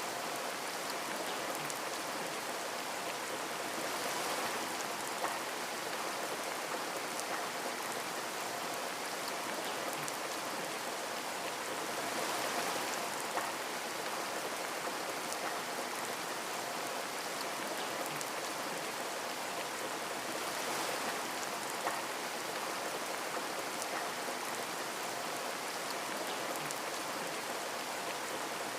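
Steady rain falling, with individual drops ticking on a window pane and a few slightly louder drop hits now and then.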